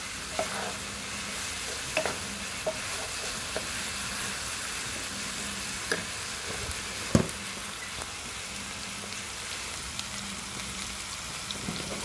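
Minced pork sizzling in hot oil in a frying pan, a steady hiss stirred with a wooden spatula. A few sharp knocks and clacks come through, the loudest a little after seven seconds in.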